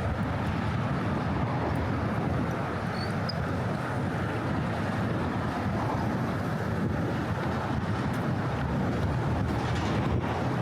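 Steady city traffic rumble, an even constant noise of vehicles on the bridge roadway with no single car standing out.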